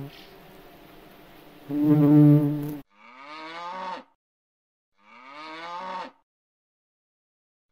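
Animal calls: a loud, low, steady one-second call, then two separate calls of about a second each that rise in pitch.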